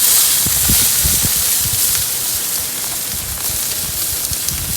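Pork butt and its dripping fat sizzling in an open Big Green Egg kamado smoker over hot charcoal: a steady bright hiss, with irregular low rumbles underneath.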